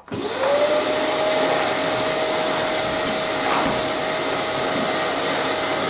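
A motor-driven machine starting abruptly: its whine rises in pitch over the first half second, then it runs steadily with a loud rushing hiss.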